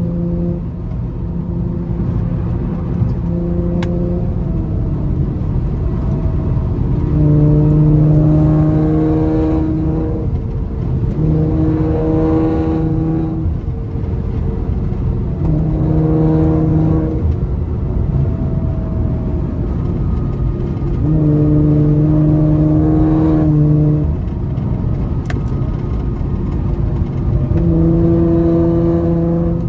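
A car travelling at highway speed, heard from inside: steady engine and road noise, with a droning engine tone that swells and fades about five times.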